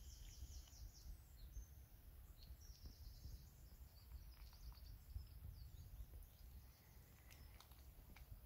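Near silence with faint birdsong: scattered high chirps and twitters over a faint low rumble.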